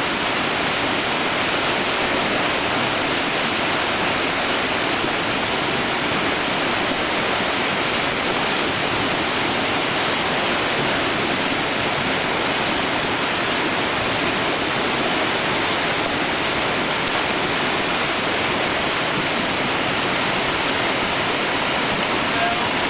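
Whitewater rapid rushing: a steady, even hiss of churning water with no breaks.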